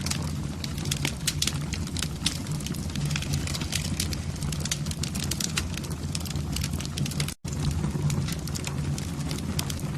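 Wood fire burning in a fireplace: a steady low rumble of flames with dense, irregular crackles and pops. The sound cuts out for a split second about seven seconds in.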